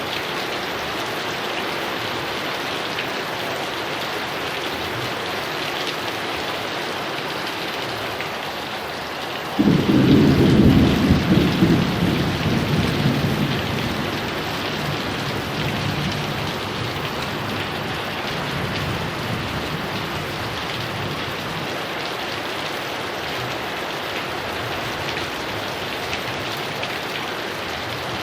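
Heavy rain falling steadily, with a clap of thunder about a third of the way in that starts suddenly and rumbles off over several seconds.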